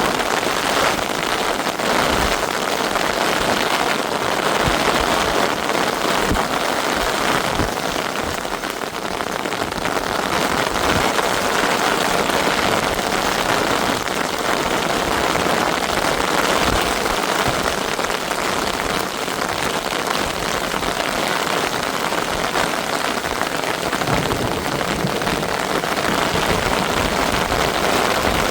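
Heavy rain falling steadily, a dense even hiss of drops, with scattered soft low thuds.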